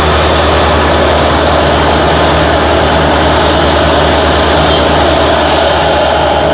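Heavy diesel engines of a tipper truck and road paving machine running steadily at a constant low drone, loud and unchanging.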